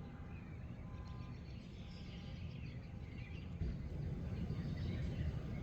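A low, steady outdoor rumble that grows a little louder in the second half, with many wild birds chirping faintly over it.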